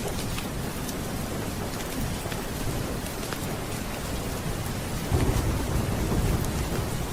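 Steady heavy rain falling, with a low roll of thunder that swells up about five seconds in.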